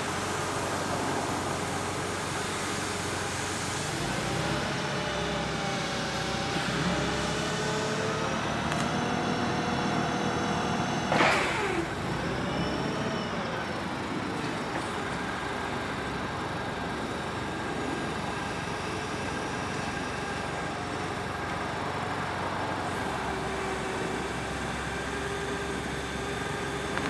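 Clark propane forklift engine running, with tones that rise and fall between about 4 and 14 seconds in. One sharp clunk comes about 11 seconds in.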